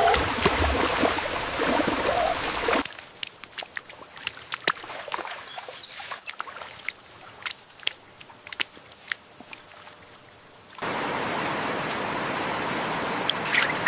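Steady rushing-water noise cuts off abruptly about three seconds in, leaving a quiet forest stretch of scattered sharp drips and clicks with a few high, thin bird chirps. The steady water noise cuts back in about three-quarters of the way through.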